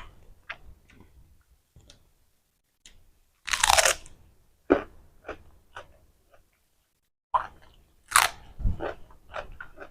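A person eating Mama instant noodles close to the microphone: chewing and mouth clicks, with two longer, louder slurps about three and a half and eight seconds in.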